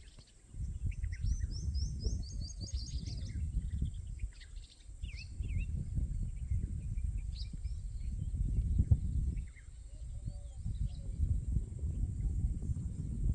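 Several birds chirping and calling, with a quick run of high chirps in the first few seconds, over a loud, uneven low rumble that dips and returns a few times.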